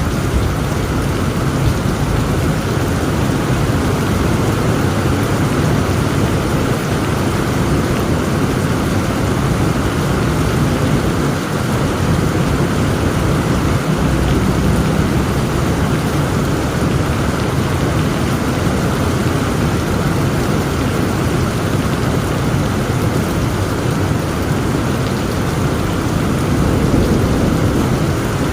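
Heavy rain pouring steadily in a thunderstorm, with a deep low rumble underneath and no sharp thunder cracks; it swells slightly near the end.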